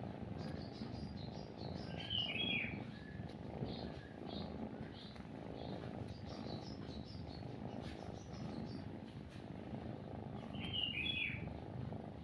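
A cat purring close up, a steady low rumble, with small birds chirping over it: a run of short high chirps and two louder sweeping calls, about two seconds in and near the end.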